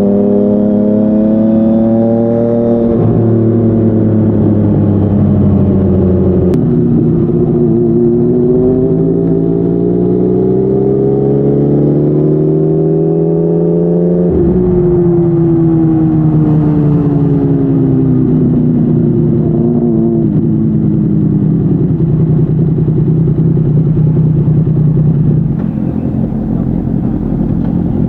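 Yamaha MT-09's three-cylinder engine through a Yoshimura R55 slip-on exhaust, on the move. The revs climb, step down suddenly about six seconds in, climb slowly again, then drop sharply after about fourteen seconds and fall away as the bike slows, settling to a steady lower note.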